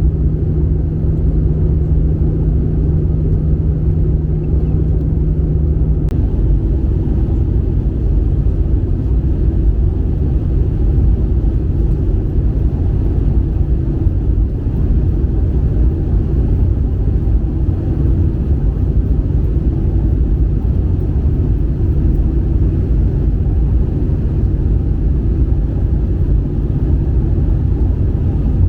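Steady low drone of an Airbus A320's engines and airflow heard inside the passenger cabin. A steady hum within it gives way to a fainter, higher hum about six seconds in.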